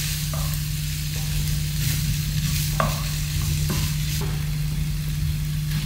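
Oil sizzling steadily around a dumpling shallow-frying in a pan, with a steady low hum underneath. A few brief taps and scrapes come from a fork and slotted spoon in the frying pan and a wooden spoon stirring saltfish in a second pan.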